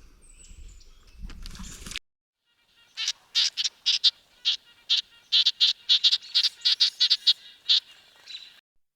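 A run of short, high chirping calls from a small animal, about three a second, starting about three seconds in after a brief silence.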